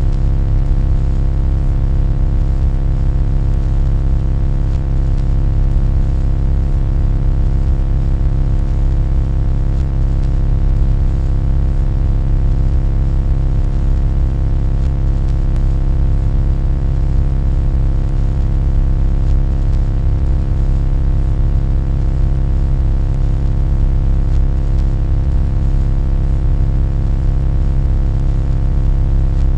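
A loud, steady, low-pitched buzzing drone with many overtones, unchanging in pitch and level.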